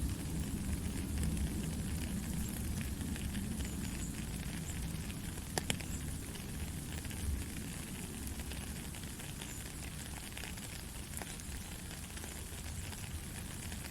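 Steady rain falling: an even hiss with scattered drop ticks, and one sharper click about five and a half seconds in.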